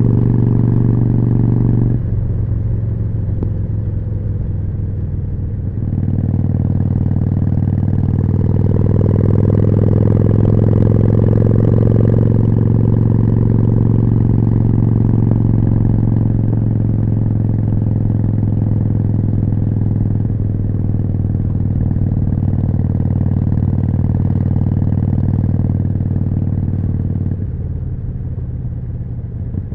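Harley-Davidson Forty-Eight's air-cooled 1200 cc V-twin running through a Jekill & Hyde exhaust while riding. The throttle eases off about two seconds in and opens again around six seconds, the pitch rises gently for a few seconds, then it holds a steady cruise before easing off near the end.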